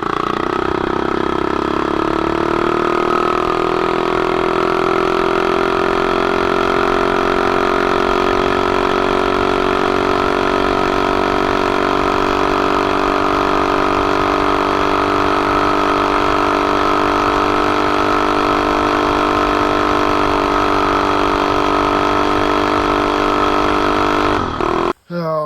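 Mini bike's Predator 212-based single-cylinder engine held at wide-open throttle on a top-speed run, turning about 5,900 RPM. The pitch climbs for the first second or two, then holds steady and loud. It drops off abruptly near the end.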